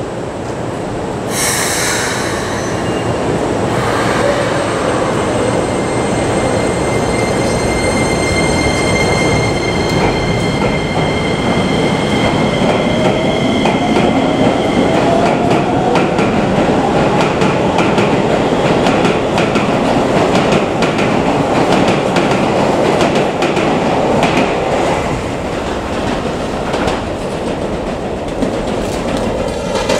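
Electric train running on the line close by: a steady rumble of wheels on rails, with several high steady tones through the first half and a whine rising in pitch partway through as it picks up speed.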